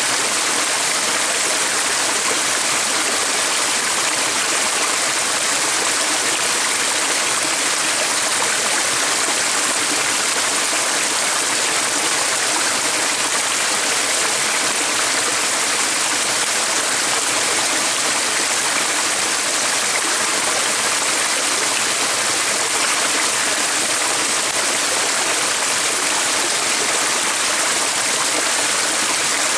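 Water in a stream flowing, a steady, even rushing sound.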